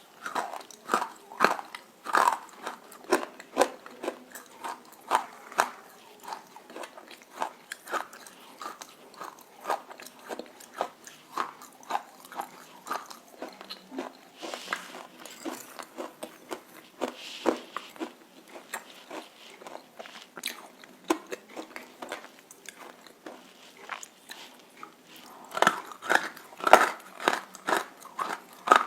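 Close-up crunching and chewing of roasted edible clay (nakumatt): a steady run of sharp, crisp bites and crunches, quieter through the middle, with a louder flurry of crunches near the end.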